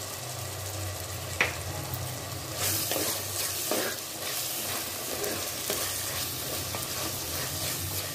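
Shallots, tomatoes and ground spice sizzling in oil in a clay pot while a wooden spatula stirs and scrapes through them, with a few sharper scrapes against the pot along the way.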